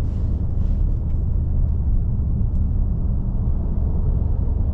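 Dodge Scat Pack's 6.4-litre HEMI V8, mid muffler deleted, running steadily with a low, even exhaust drone while the car creeps along in traffic.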